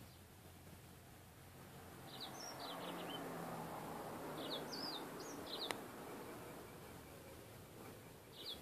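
A bird chirping in three short bursts of quick, high, sliding notes over a soft rushing background noise that swells through the middle; a single sharp click about halfway through.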